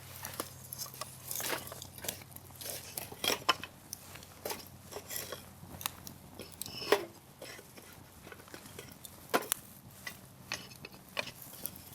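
Firewood campfire crackling, with irregular sharp pops and snaps; a few louder pops stand out, about three and a half, seven and nine and a half seconds in.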